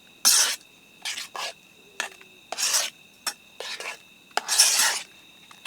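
A spoon stirring and scraping a yogurt spice mix in a dish, about six separate strokes of uneven length, the longest near the end. Crickets keep up a steady high chirr underneath.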